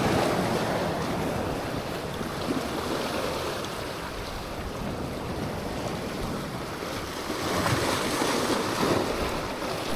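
Steady rushing of wind on the microphone mixed with water noise from the waves.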